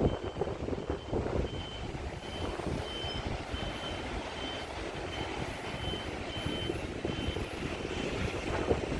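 Electronic warning beeper sounding a short high beep about every 0.7 s, over a low rumble of railway station and train noise.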